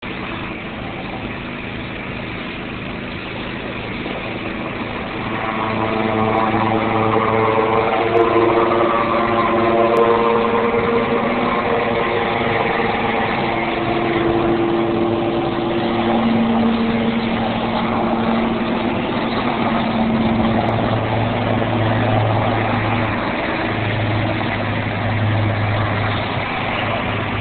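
Helicopter turbine engine and rotor running for take-off. The sound grows louder about five seconds in, then holds steady with several held tones that shift in pitch.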